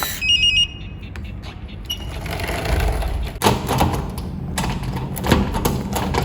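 A quick run of short electronic beeps, then rustling and several knocks of household things being handled.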